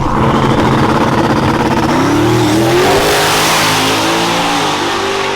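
Race vehicle's engine accelerating hard, its pitch climbing about two seconds in, the sound swelling loudest a little past the middle and then easing off.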